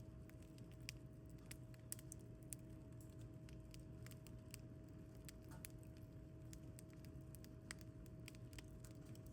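Wood fire in a folding fire pit crackling softly, with scattered faint pops over a low steady rumble.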